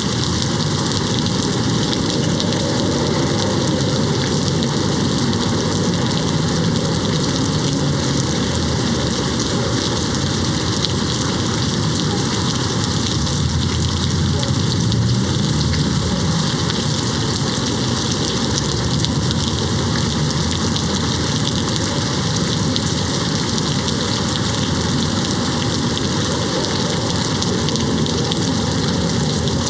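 Steady, even rain falling against a window.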